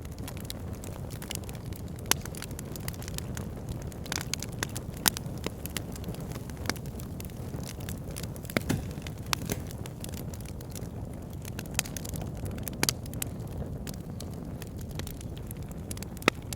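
Backyard fire pit burning with a steady low rush of flame. Frequent sharp crackles and pops are scattered through it, a few of them standing out louder.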